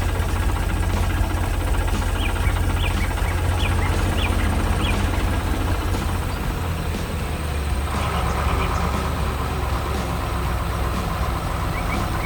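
Tractor engine running with a steady low drone, short bird chirps over it. About eight seconds in, the engine note changes and a higher pulsing whine joins.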